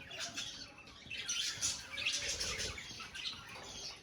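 Colony of budgerigars chattering, many short high chirps and twitters overlapping, busier from about a second in.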